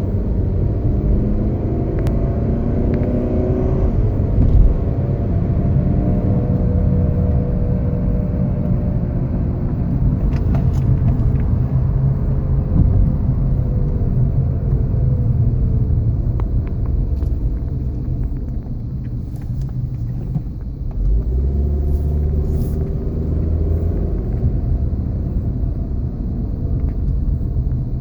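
1999 Honda Accord driving at 40 mph or more: a steady low rumble with a droning hum whose pitch slowly rises and falls. This is the noise that appears above 40 mph.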